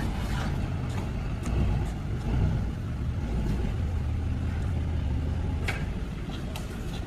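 Tow truck engine running with a steady low rumble as it drives, with a few short clicks and knocks over it, the sharpest a little before the end.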